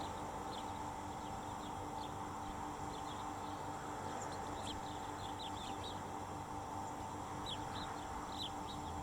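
Small birds chirping in short, scattered notes, in two busier bunches near the middle and toward the end, over a steady background hum.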